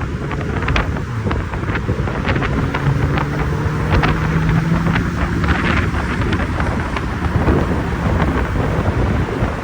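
V12 engine of a Pagani Zonda HP Barchetta, a deep rumble at low revs whose pitch creeps up a little in the middle. Scattered sharp crackles and wind buffeting on the microphone run through it.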